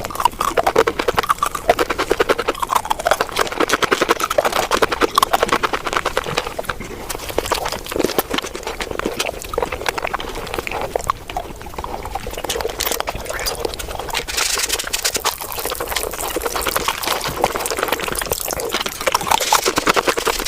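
ASMR mukbang eating sounds played back at five times normal speed: a dense, continuous stream of rapid chewing clicks and wet mouth sounds.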